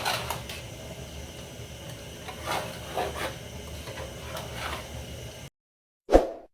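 Soft scraping and rubbing of objects being handled over a steady background hum. The sound then cuts to silence and is followed by a single sharp knock near the end.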